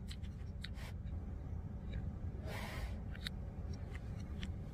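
Close eating sounds: a few faint wet mouth clicks of chewing and a short hiss of breath about two and a half seconds in, over a steady low hum.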